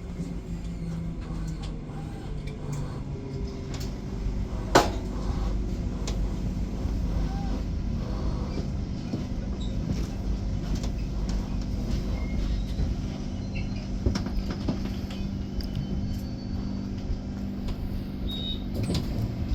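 Steady low rumble and hum inside a commuter train carriage, with one sharp click about five seconds in.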